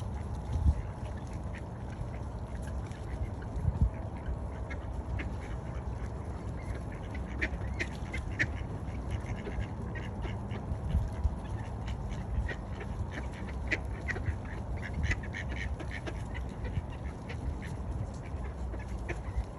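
Ducks quacking, many short calls coming in scattered clusters, over a steady low rumble with a couple of dull thumps in the first few seconds.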